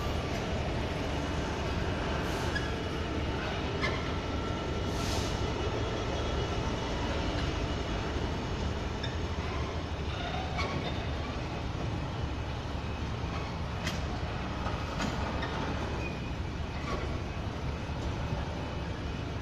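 Freight train of enclosed car-carrier wagons rolling across a street level crossing: a steady, unbroken running noise of wheels on rail, with faint wheel squeals and light clicks now and then.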